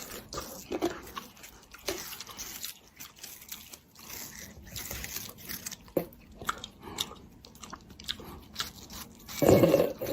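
Close-up chewing and crunching: irregular sharp crackles and clicks, with a louder noisy crunch about nine and a half seconds in.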